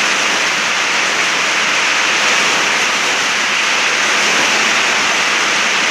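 Heavy rain pouring down in a downpour, a loud steady hiss.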